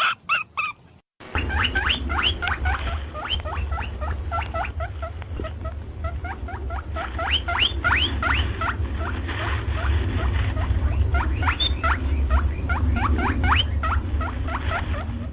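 A rapid, overlapping stream of short rising squeaks and chirps from small animals, several a second, over a steady low rumble. A different animal's calls are heard briefly before a cut about a second in.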